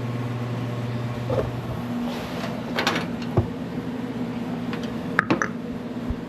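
A steady machine hum, its deepest part cutting off about two seconds in, with a few sharp clicks and knocks of hand work on the engine. The loudest knocks come about five seconds in.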